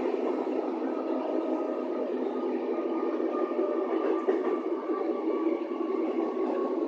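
Inside a moving electric commuter train: the steady running noise of the carriage rolling along the rails, with a faint steady whine over it.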